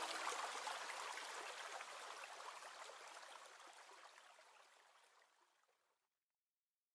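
Faint rushing noise of running water, fading away to silence a few seconds in.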